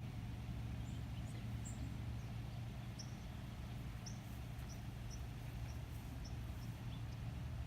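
A steady low hum with faint, short high chirps of small birds scattered through.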